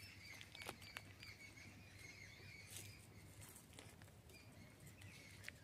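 Near silence: faint outdoor ambience with a thin, steady high-pitched tone and a few soft ticks.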